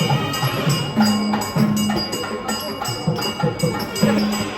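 Traditional South Indian temple procession music: drums beating an even rhythm with low, pitch-bending strokes, over jingling bells.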